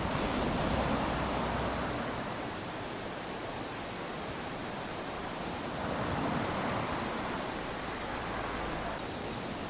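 Small ocean waves lapping onto a sandy beach: a steady wash of surf that swells twice, at the start and again about six seconds in.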